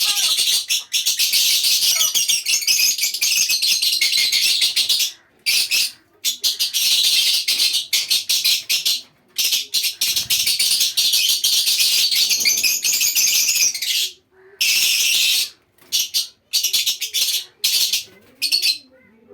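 Many small caged birds chirping and chattering at once in a dense, high-pitched chorus, broken by several abrupt gaps.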